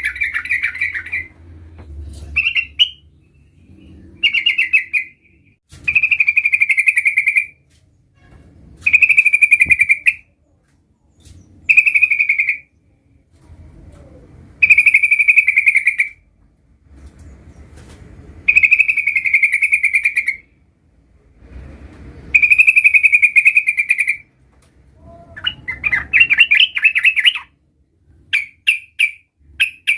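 Yellow-vented bulbul (trucukan) singing: loud, bubbling phrases of one to two seconds, repeated every few seconds with short pauses, breaking into quick short chirps near the end.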